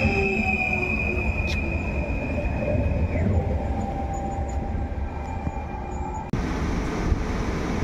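Passenger train cars rolling past along a station platform, with a steady rumble and a high, sustained wheel squeal that drops away about three seconds in. About six seconds in, an abrupt cut gives way to a different, steadier rail rumble.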